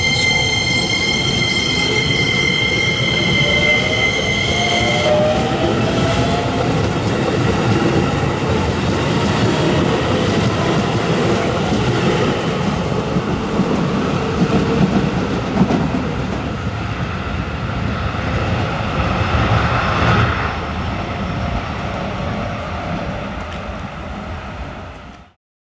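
Shin-Keisei N800 series train's Toyo IGBT-VVVF inverter and traction motors, heard over rail and wheel noise. A steady high whistle stops about five seconds in, then fainter tones rise in pitch as the train picks up speed. The sound cuts off suddenly near the end.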